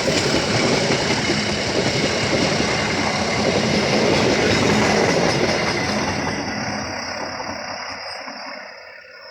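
Train passing close by, its running noise loud at first and then fading away from about six seconds in.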